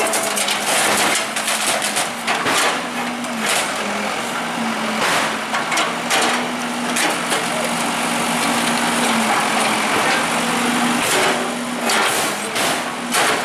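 Bulldozer's diesel engine running steadily, with scattered knocks and crunches of demolition rubble.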